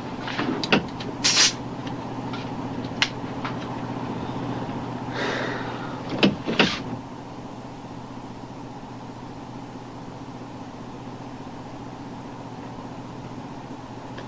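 Steady low drone of a patrol boat's engines heard inside the hull, with a few sharp knocks and clatters in the first seven seconds, the loudest a pair of knocks about six and a half seconds in.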